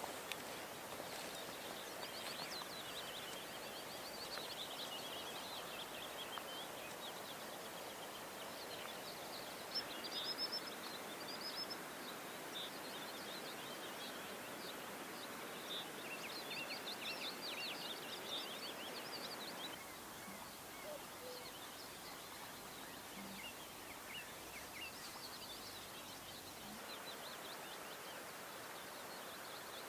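Wild birds singing in quick chirps and trills over a steady outdoor background rush, which eases a little about two-thirds of the way through.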